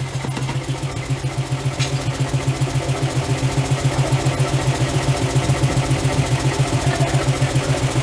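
A machine running steadily, with a low hum that pulses evenly about seven times a second.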